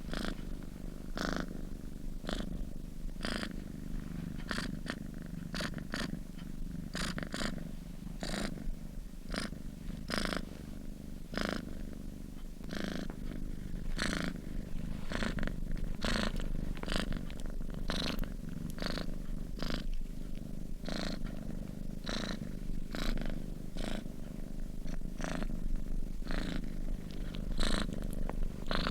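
Sleeping domestic cat purring steadily: a low rumble with a soft, breathy rasp about once a second.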